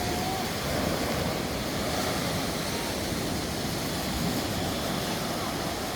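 Sea surf washing onto the beach: a steady rushing noise.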